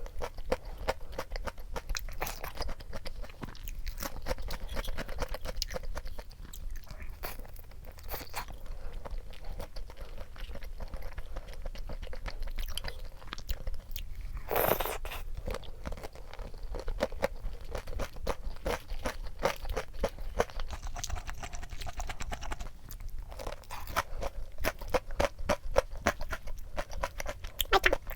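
Crunching and chewing of crispy fried chicken (yuringi), with many small crackles and one louder crunch about halfway through.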